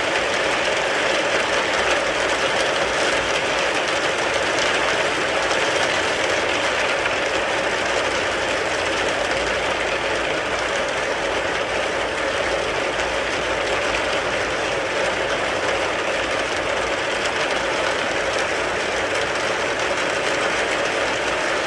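Steady rain falling on a car, heard from inside: a dense, even patter that holds at one level without let-up.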